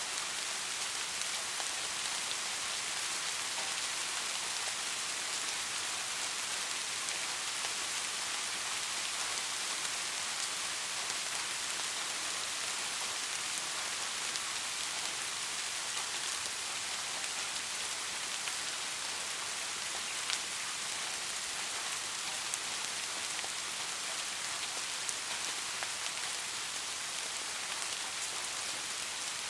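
Steady rain falling, a dense hiss of drops pattering on a surface with scattered individual drop ticks.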